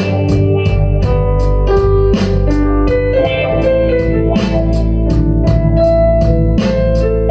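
Blues-rock band playing an instrumental passage: sustained organ-sound keyboard chords over bass, with a steady drum beat of about two hits a second.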